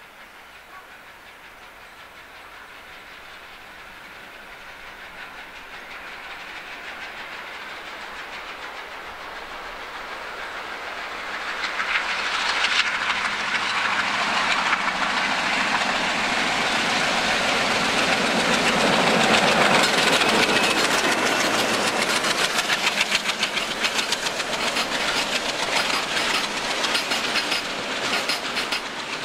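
A train hauled by a pair of ALCo diesel locomotives approaching and passing. It builds steadily, turns loud about twelve seconds in, then carries on with a rapid clickety-clack of wheels over the rail joints as the train goes by.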